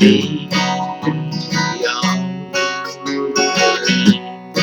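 Acoustic guitar strummed and picked in a slow accompaniment, playing the instrumental bridge of a gospel song between sung lines.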